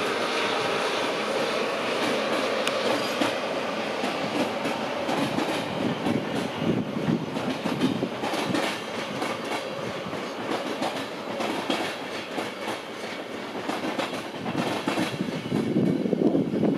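Passenger train coaches rolling past at speed, their wheels clattering over rail joints in an uneven run of clicks. The clatter grows louder near the end.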